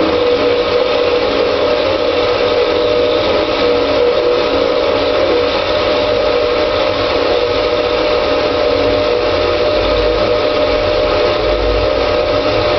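Headman CK6130 CNC lathe running: a steady whine over an even hiss, with a low rumble coming in near the end.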